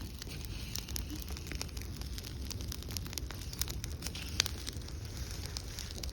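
A pile of dry leaves burning, crackling with irregular sharp pops over a steady low rumble.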